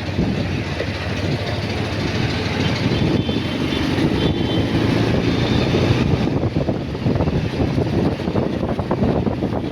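Motorcycle running on the move, with wind rumbling over the microphone.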